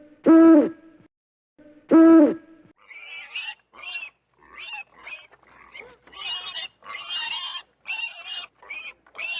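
Animal calls: two loud, low hoots near the start, then after a short gap a long run of short, high-pitched squeals and squeaks from another animal.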